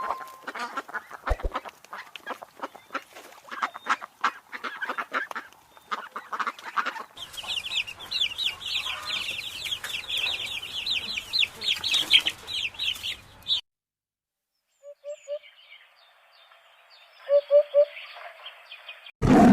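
Chickens clucking in a rapid string of short calls, followed by a dense high-pitched chirping of many birds that cuts off suddenly about two-thirds through, then fainter scattered calls.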